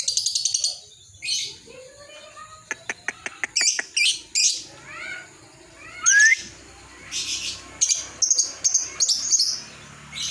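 Lovebird calling in a string of shrill chirps and harsh squawks, with a fast run of clicking notes about three seconds in. The loudest call, a rising squawk, comes about six seconds in, and choppy chattering calls follow.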